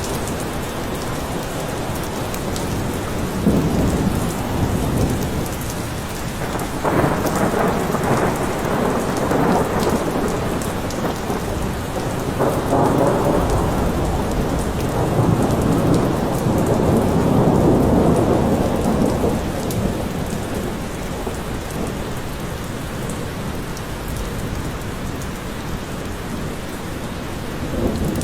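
Steady heavy rain with rolling thunder. Long low rumbles swell about 3 seconds in, again around 7 seconds, and longest from about 12 to 19 seconds in, then ease back to the rain alone.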